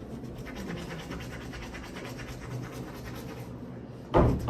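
A steady scratchy rubbing noise, ending in a loud bump near the end.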